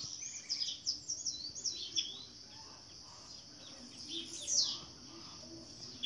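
Wild birds chirping: a quick run of short, downward-sweeping high chirps over the first two seconds, then another loud group of chirps about four and a half seconds in, over a steady high hiss.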